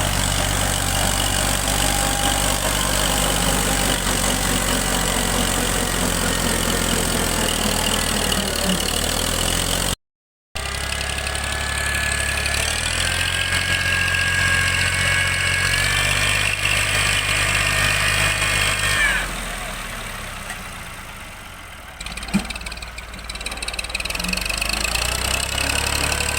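Diesel tractor engine running steadily while pulling a heavily loaded trolley, with a sudden short break about ten seconds in. After it a high whine rises and holds for several seconds, then the engine drops away for a couple of seconds and comes back.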